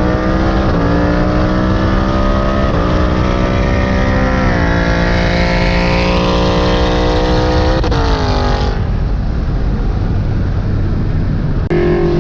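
Ford Coyote 5.0 V8 Mustang at full throttle in a roll race: the engine note climbs and drops back at quick upshifts through the 10-speed automatic, with a high whine rising over it about halfway through. Near nine seconds in the throttle is lifted and the engine falls to a lower, softer run.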